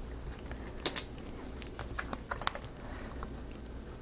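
Small wooden marble-run pieces clicking as they are handled and set down on a table: scattered light clicks, several close together about two seconds in.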